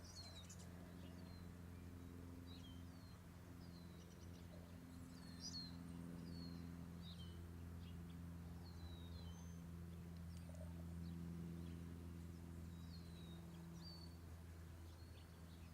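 Faint birds chirping in short, downward-sliding notes, roughly one or two a second, over a steady low hum.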